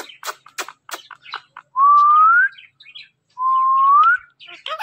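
Indian ringneck parakeet making quick clicking chatter, then two loud whistles, each held on one note and rising at the end.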